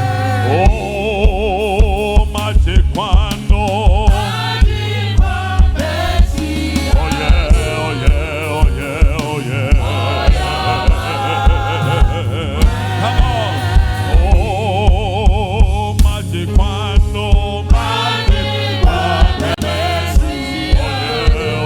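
Gospel worship music: voices singing with a wavering vibrato over a band with a heavy, steady bass-drum beat, a few beats a second.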